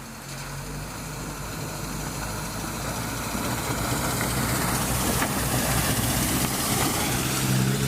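Racing vehicle engine in the rain growing steadily louder as it draws near, its low hum joined by a hiss that swells along with it.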